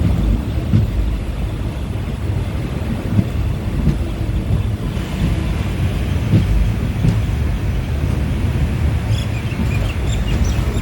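Passenger train running along the track: a steady low rumble with a few brief knocks from the wheels.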